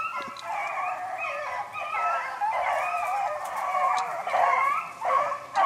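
A small pack of 13-inch female beagles baying as they run a rabbit's scent line, several wavering, overlapping voices giving tongue without a break.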